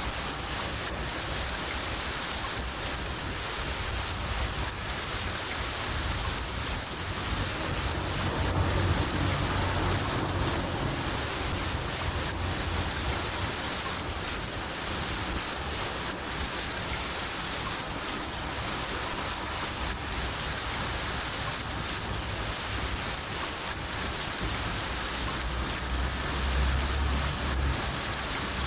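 A cricket chirping in a steady, even rhythm of about three chirps a second over a constant hiss of rain, with low rumbles of thunder about a third of the way in and again near the end.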